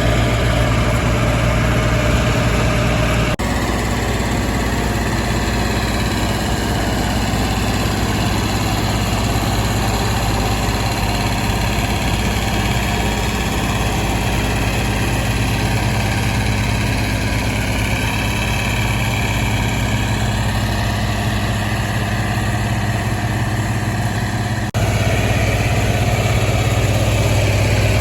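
Diesel tractor engine running steadily at low revs. The engine note changes abruptly twice, about three seconds in and again near the end.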